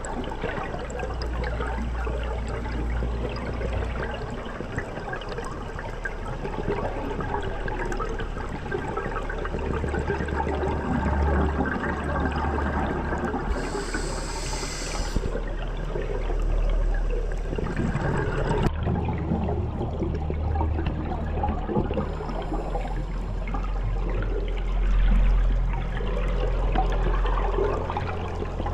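Underwater sound picked up by a diving camera: continuous rushing and bubbling water with a deep rumble, a short hiss about halfway through, and an abrupt change in tone about two-thirds of the way in.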